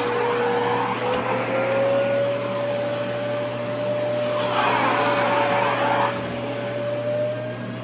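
Vacuum cleaner running steadily: a motor whine that slowly drifts in pitch over a rush of air. The rushing swells louder twice, briefly about half a second in and again for over a second past the middle.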